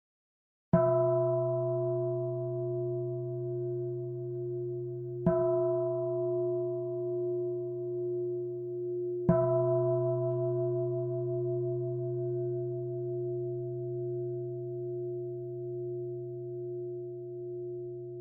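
A meditation bell struck three times, about four to five seconds apart. Each strike rings on in a long, slowly wavering tone that is still sounding at the end.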